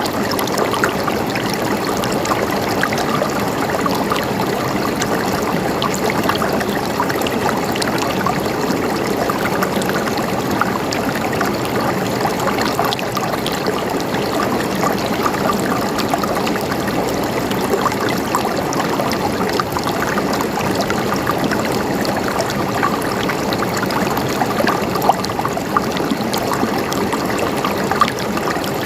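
River water flowing over stones, a steady rushing with many small splashes and gurgles.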